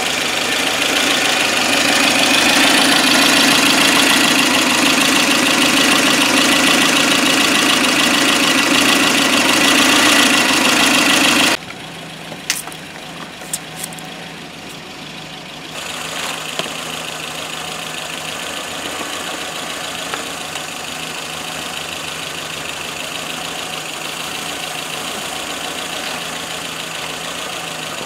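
Car engine idling. For the first eleven seconds or so a loud, even rushing noise covers it and then cuts off suddenly, followed by a few clicks and the steady idle.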